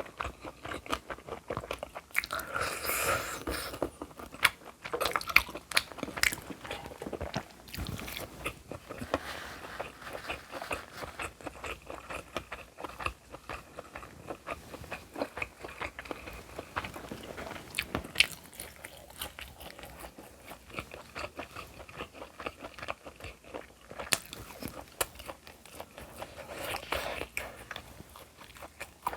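A person chewing and biting food close to the microphone, with many quick irregular crunchy clicks and wet mouth sounds and a few louder bites.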